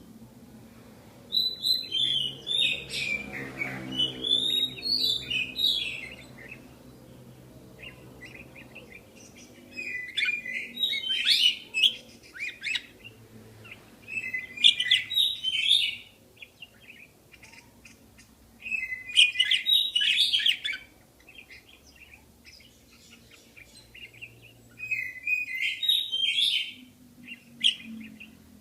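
Budgerigars chirping and warbling in five bouts of a few seconds each, with short pauses between.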